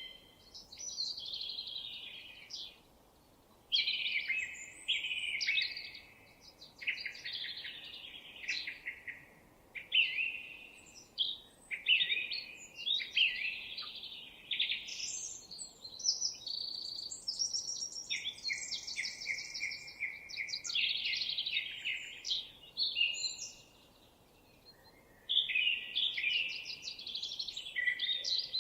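Songbirds singing in quick, varied, high-pitched phrases, with a couple of short pauses between runs of song.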